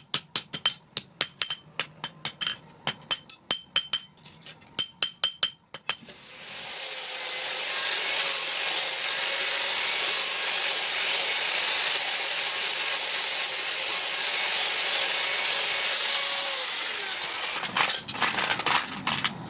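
Hammer blows on steel, several ringing strikes a second, for the first six seconds. Then a power tool runs steadily on the metal for about eleven seconds and winds down, followed by a few more hammer strikes near the end.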